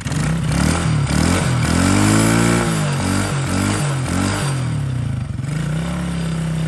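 Dirt bike engine just fired on a cold start with the choke on, revved up and down several times in the first half, then settling into a steady idle near the end.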